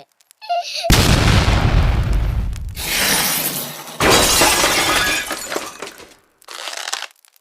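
Loud crashing and breaking noise in two long bursts about three seconds apart, then a shorter, fainter crash near the end.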